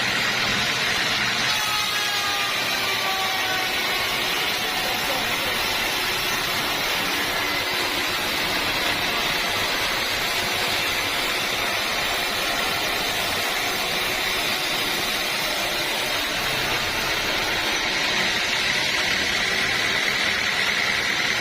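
Band sawmill running steadily under load, its blade cutting through a teak log with a steady high whine over a dense noise of sawing.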